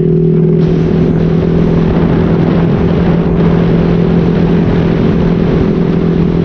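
Motorcycle engine breathing through an SC Project aftermarket exhaust with a modified elbow pipe, running while riding. The exhaust note holds one steady pitch.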